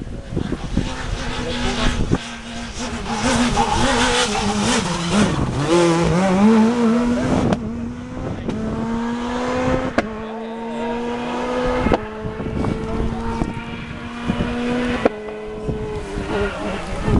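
Rally car engine revving, its pitch wavering up and down at first, then climbing slowly several times, each climb cut off by a sharp crack.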